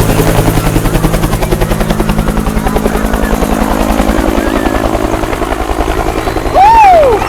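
Bell UH-1 Huey helicopter close by and coming in to land, its main rotor beating rapidly and steadily over the turbine. Near the end a high voice cries out, rising then falling.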